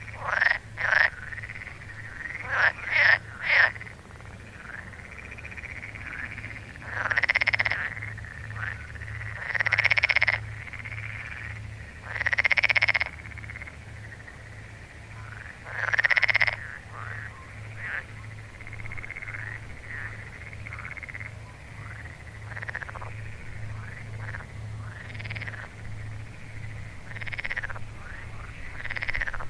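Frogs croaking at a lake. There are several short, loud croaks in quick succession in the first few seconds, then longer croaks of about a second each every few seconds, with quieter calls between them. A faint low pulsing runs underneath.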